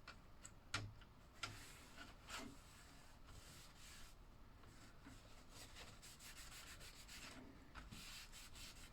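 Faint rubbing and scrubbing, with a few light clicks in the first couple of seconds: slot car contacts being cleaned with alcohol.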